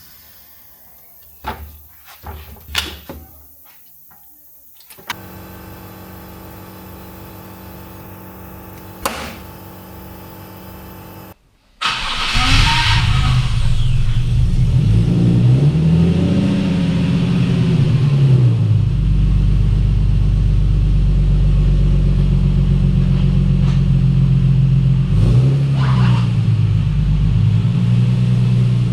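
Nissan 370Z V6 running through its cat-delete exhaust and home-built rear muffler, loud, revved several times with the pitch rising and falling. Before it, in the first part, there are a few sharp clicks and then a steady hum.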